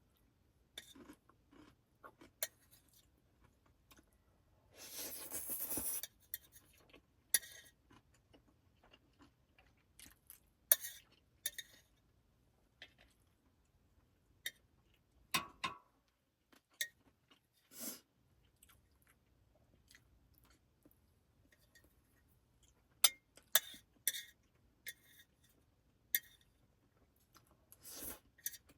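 Close-up eating sounds: intermittent chewing and crunching, with small sharp clicks and taps scattered throughout and a rustling noise lasting about a second around five seconds in.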